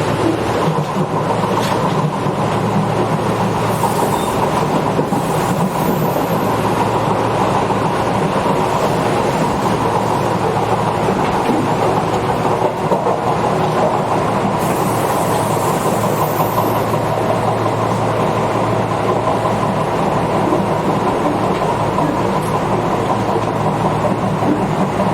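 Tobu 8000 series electric commuter train heard from inside a car while running at steady speed between stations. Its motors and gears give a continuous hum, and the wheels rumble on the rails.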